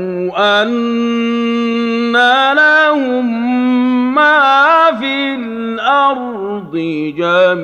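A man reciting the Quran in the Hijazi style, drawing a single word out into a long, ornamented melodic line. He holds sustained notes with slow pitch turns, with a couple of brief breaks for breath near the end.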